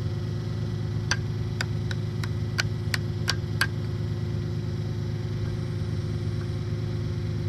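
Tractor engine idling steadily, with a quick run of about nine sharp taps starting about a second in and lasting under three seconds.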